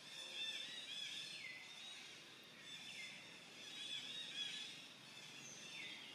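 Faint outdoor bird chorus: high chirping calls throughout, and a call that slides down in pitch a few times.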